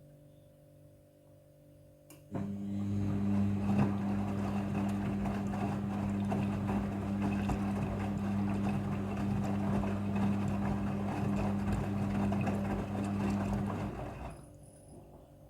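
Front-loading washing machine running: a steady low motor hum with a rushing, watery noise that starts suddenly about two seconds in and dies away near the end.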